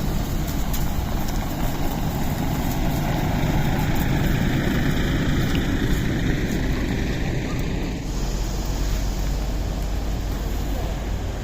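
A tour bus running, its engine and road noise heard from inside the passenger cabin. The sound shifts, with more low-end weight, about eight seconds in.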